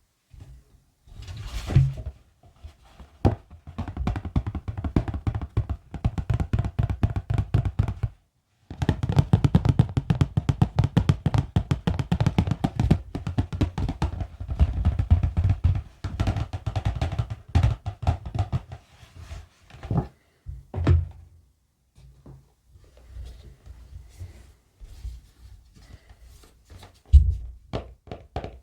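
Rapid ASMR tapping on objects: dense, fast taps with deep thuds under them. They stop briefly about eight seconds in, start again, and thin to sparser, softer taps after about twenty seconds.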